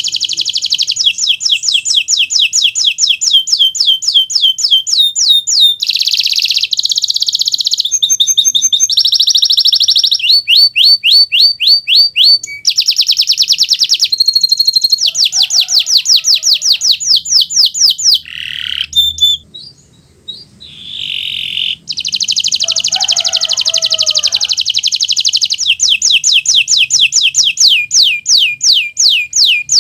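Kenari Nusantara (Indonesian domestic canary) singing a loud, continuous song of fast trills. Each trill is a quick run of the same note repeated, and the trill type changes every second or two. The song breaks off for a few seconds about two-thirds of the way through, then resumes.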